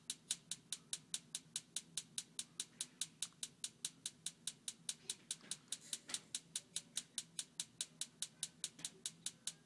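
Furnace ticking steadily, about five sharp ticks a second, while no flame lights and no heat comes out: the furnace is failing to fire.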